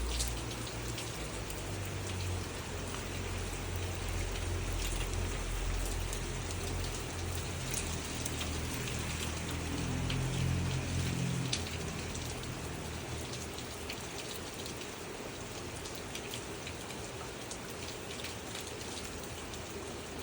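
Steady rain falling, with many individual drops ticking on a surface. A low rumble sits underneath for the first half and fades out.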